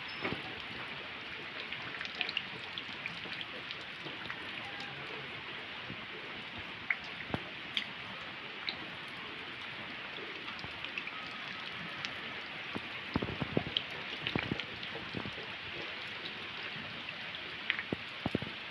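Heavy rain falling with a steady hiss, with scattered sharp clicks and knocks of hailstones striking, thickest about 13 to 15 seconds in.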